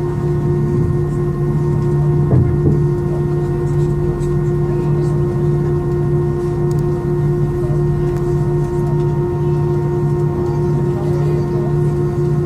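Airbus A320 engines running at a steady idle, heard inside the cabin as a constant hum with several unchanging whining tones. A small knock sounds about two seconds in.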